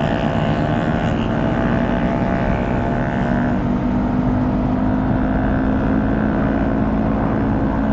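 Motorcycle engine running at steady revs while riding, its note holding an even pitch, over a low rush of wind noise.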